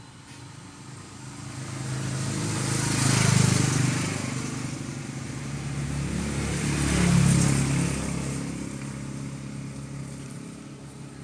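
Two motor vehicles passing one after the other, each engine rising and then fading away, the first peaking about three seconds in and the second about seven seconds in.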